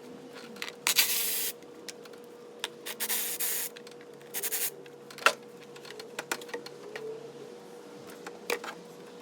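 Three short rasping bursts with scattered clicks and knocks as hand tools work the screws holding a plastic air-intake snorkel, under a faint steady hum.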